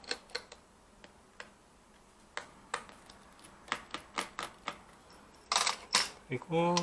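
Irregular sharp clicks and taps of a Phillips screwdriver and small screws against a laptop's plastic bottom case as the screws are undone, with two louder scraping rustles near the end.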